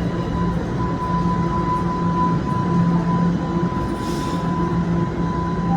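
TTC Line 1 Toronto Rocket subway train humming steadily, a constant high tone over a low drone.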